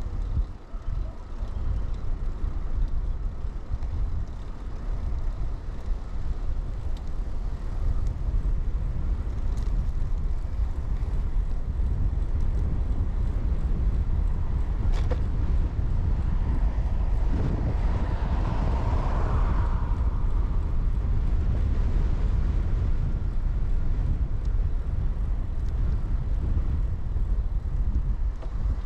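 Steady low wind rumble and rolling noise from riding a bicycle, picked up by a chest-mounted action camera under a foam wind cover. About two-thirds of the way through, a louder swell of noise rises and fades over a few seconds.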